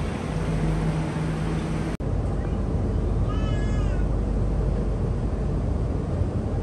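Steady hum and rush of an ETS electric train standing in the station, its air-conditioning and onboard equipment running, with a low steady tone that stops when the sound drops out for an instant about two seconds in. Roughly halfway through comes a short, high, wavering cry lasting under a second.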